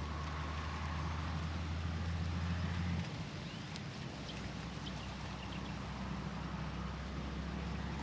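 Low, steady engine hum whose deepest part cuts off about three seconds in, while a fainter drone carries on.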